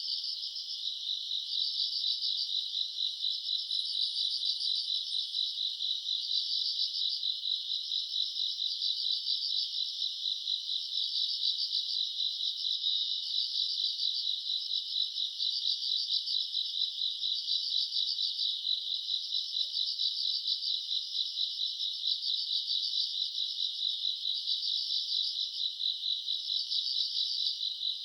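Summer-night chorus of grass insects such as crickets: a steady, high, fast-pulsing trill from many singers at once, swelling and easing in a regular rhythm.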